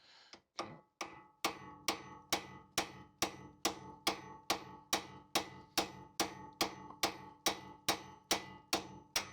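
Hammer striking a metal tool in a steady rhythm, about two and a half blows a second, each blow ringing briefly, working a fastener loose without a proper socket.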